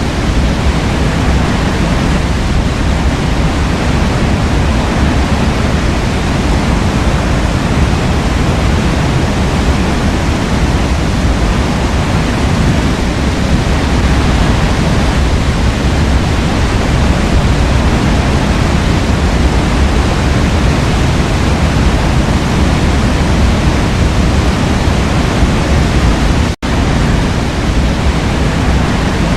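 Waterfall: a steady, loud, even rush of falling water, heaviest in the low end, with one split-second dropout near the end.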